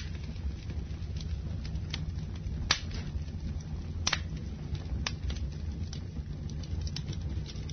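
Campfire burning with a steady low rumble and irregular sharp crackles and pops. The loudest pops come a little under three seconds in and about four seconds in.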